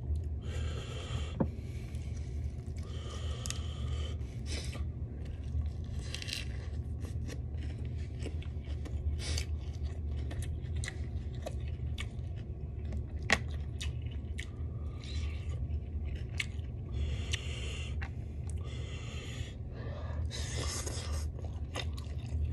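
Close-up eating sounds: a lettuce wrap of black bean noodles being crunched and chewed, with many small wet mouth clicks, over a steady low hum.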